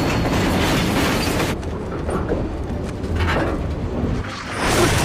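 Loud rumbling noise with sweeping whooshes and a swell near the end, a dramatic sound-effect mix.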